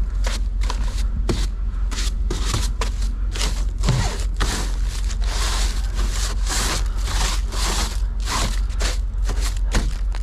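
Snow being scraped and pushed off the roof of a semi-truck in quick, irregular strokes, over a steady low rumble.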